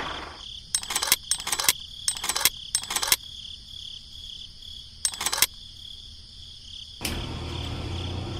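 Insects chirping: a steady high trill with short bursts of chirps at uneven gaps, and a low steady hum coming in near the end.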